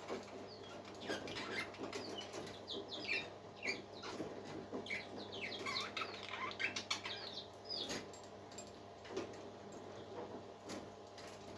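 A group of parakeets chirping and chattering in quick short calls and falling whistles, busiest in the middle, with scattered clicks, over a faint steady hum.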